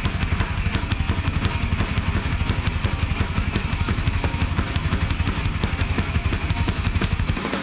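Hardcore band playing a fast, hard song live: rapid, driving drumming with kick drum under heavy guitars, without vocals.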